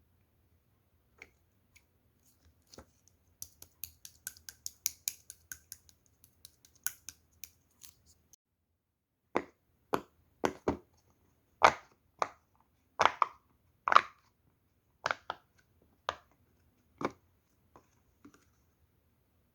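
Clear slime pressed and popped on a round silicone pop-it toy: a quick run of small, crisp clicks, then louder single pops roughly one a second.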